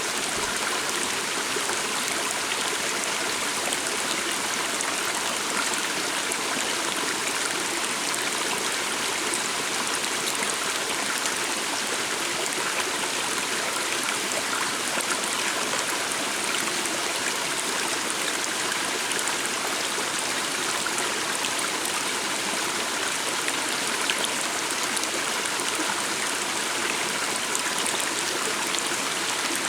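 A stream running steadily: a continuous, even rush of flowing water with no breaks.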